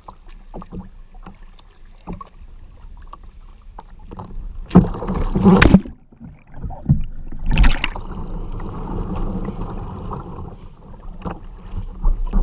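Water splashing around a kayak: two loud splashes about five and seven and a half seconds in, then steady sloshing.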